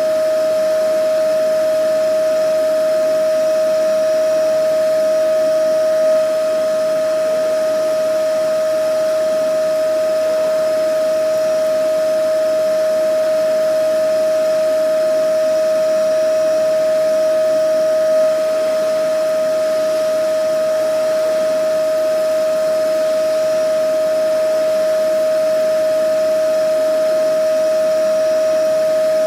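Vacuum cleaner running steadily: a constant high motor whine over an even rushing hiss, swelling slightly for a moment twice.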